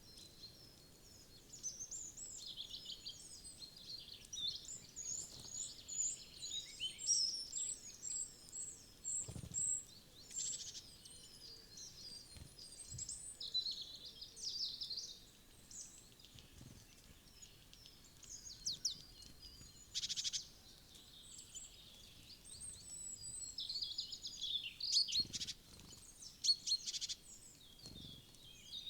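Small woodland songbirds chirping and singing, several overlapping high calls and trills coming thick and fast after the first second, with a few soft knocks in between.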